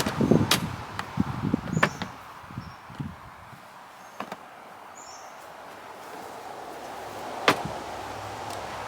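Knocks and clicks of things being handled and moved: a burst of them in the first three seconds, then a quieter stretch with one sharp click about seven and a half seconds in. A few short, faint high chirps sound now and then.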